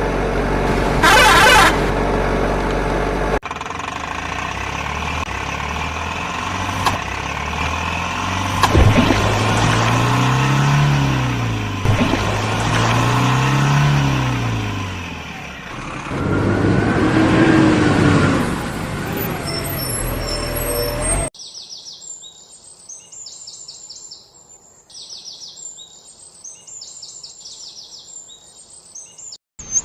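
A vehicle engine running, rising and falling in pitch twice as it revs up and down. After that it cuts out, leaving repeated high bird chirps.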